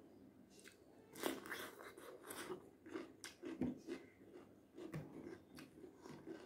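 A person chewing a mouthful of raw cucumber, with crisp, irregular crunches starting about a second in.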